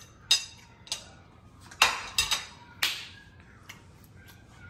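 Wet mouth smacks and chewing from someone tasting a forkful of food: about six short, sharp smacks at uneven intervals.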